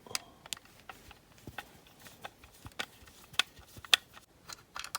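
Small screwdriver unscrewing a screw from the base of a diecast model car: light, irregular clicks and ticks of the driver tip turning in the screw head and of metal parts being handled.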